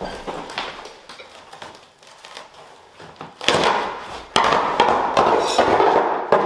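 Carpet being ripped up by hand. There are a few quiet handling knocks at first, then about halfway in a loud, rough ripping noise with crackles.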